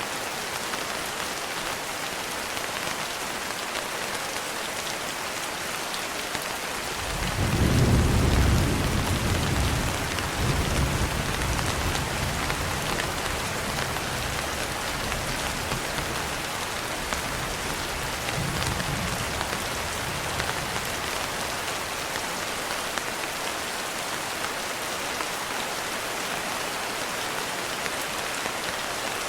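Steady rain falling, with a low roll of thunder that swells about seven seconds in, is loudest a second or two later, and rumbles on, fading away by about twenty seconds.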